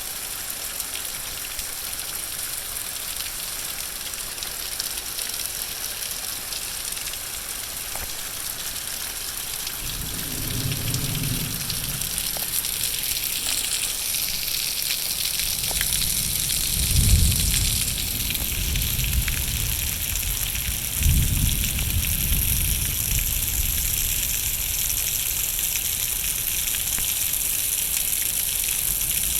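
Heavy rain pouring steadily during a storm, with three low rumbles about ten, seventeen and twenty-one seconds in.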